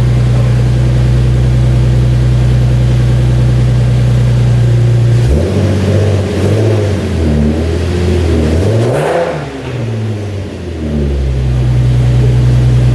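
Car engine idling steadily, then revved several times from about five seconds in, the pitch rising and falling, before settling back to a steady idle near the end.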